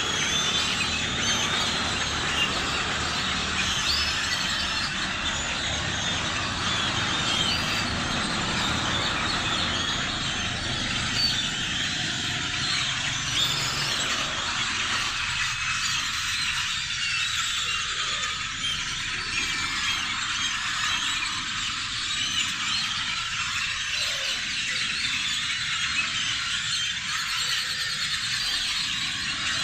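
A large flock of birds calling all at once: a dense, steady din of many overlapping high chirps and calls.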